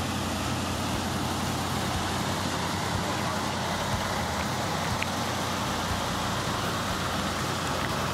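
Chevrolet Corvette Stingray's V8 engine idling steadily.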